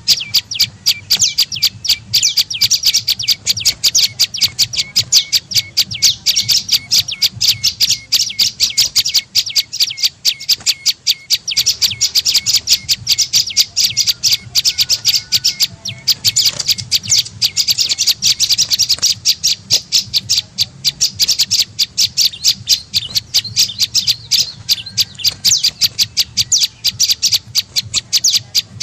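Prenjak lumut bird's lure call: a fast, unbroken run of short, high chipping notes, several a second, kept up without pause.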